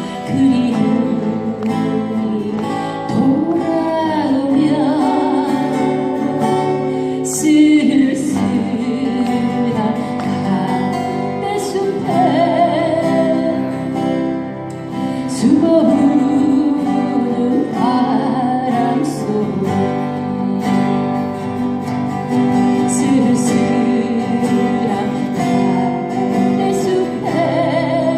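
A woman singing a Korean folk song over strummed acoustic guitar.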